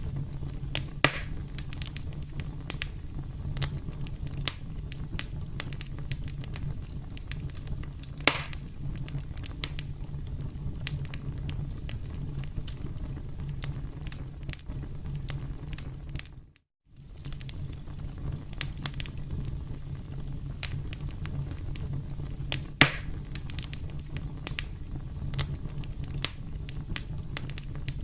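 Campfire crackling: a steady low rumble of burning wood with frequent small crackles and three louder pops. There is a brief break in the sound just past the middle.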